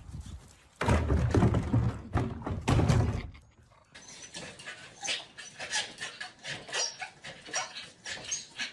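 Dog sounds: loud rustling and thumping for the first few seconds, then a run of short, quieter sounds repeating about twice a second.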